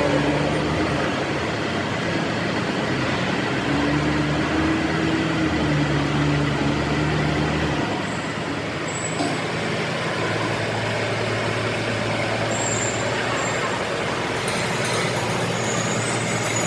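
A heavy engine running steadily, its low hum wavering in pitch, settling to a lower, steadier hum about eight seconds in.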